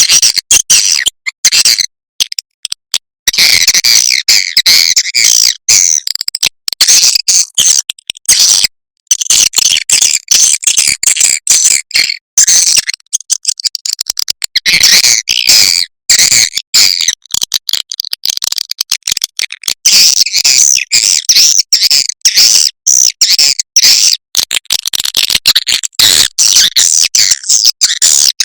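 Recorded swiftlet calls: a loud, dense chatter of rapid high chirps and twitters with a few short pauses, the kind of lure call (suara panggil/inap) played to draw swiftlets to roost and nest.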